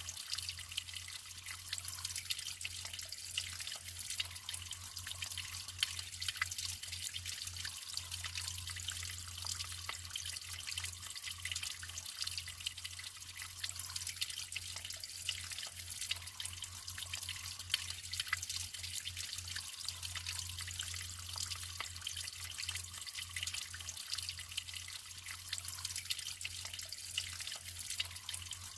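Natural water flowing steadily, trickling and splashing with many small drips.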